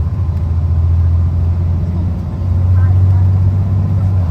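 Diesel engine of a 2023 IC CE school bus running under way, heard on board as a steady deep drone. It dips briefly about halfway through, then comes back a little louder.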